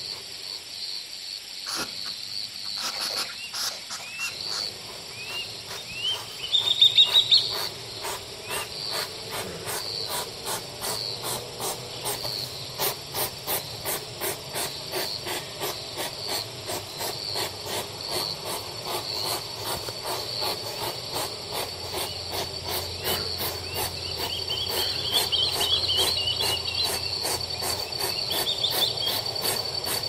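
Insects chirping in a steady rhythm, a few chirps a second, over a continuous high-pitched whine, with short rising chirps now and then and a louder rapid burst about seven seconds in.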